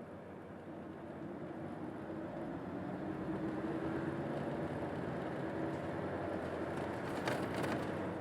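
Cabin running sound of an early Odakyu Bus 9000-series city bus: the engine and drivetrain hum, growing louder a couple of seconds in as the bus picks up speed, then holding steady. A brief rattle comes near the end.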